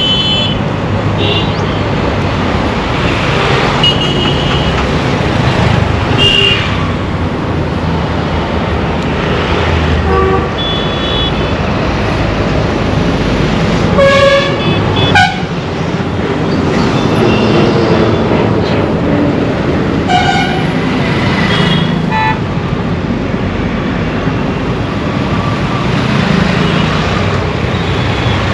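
Busy Indian road traffic: a steady din of engines and tyres with frequent horn honks from different vehicles, short beeps and longer toots at irregular intervals, thickest about halfway through.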